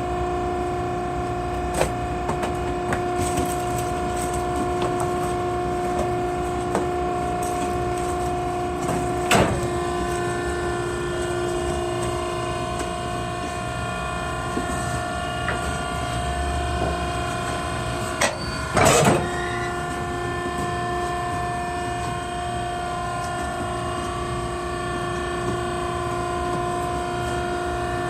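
Maren cardboard baler's hydraulic power unit running with a steady pitched hum, broken by a few sharp knocks, the loudest about nine seconds in and again twice close together around nineteen seconds.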